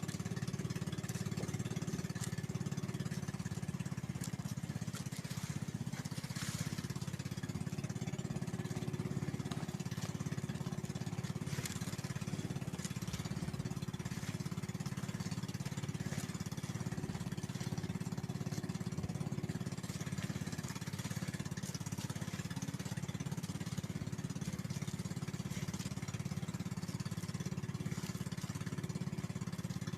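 Small boat engine running steadily at a constant speed, a low, even drone with a steady hum above it.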